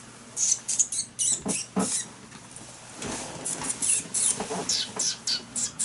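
A person making a quick series of short, high squeaky mouth noises, about three or four a second, in two runs with a short break around the middle.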